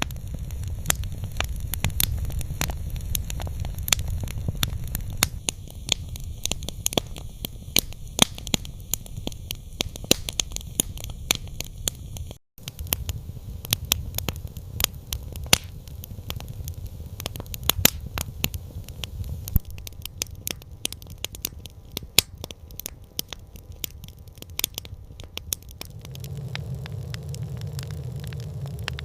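Campfire crackling, with frequent sharp pops and snaps over a steady low rumble of the flames. The sound cuts out for an instant about twelve seconds in.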